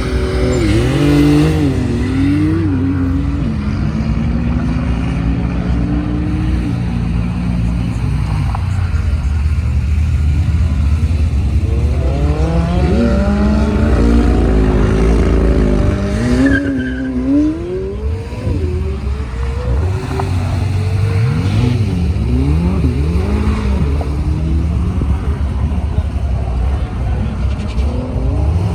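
Supercar engines revving hard and accelerating through the gears: the pitch climbs, drops sharply at each gear change and climbs again, with several cars overlapping and passing one after another.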